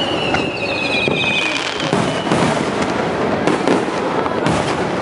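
Fireworks display: a steady din of bangs and crackling, with a high whistle gliding down in pitch over the first second and a half.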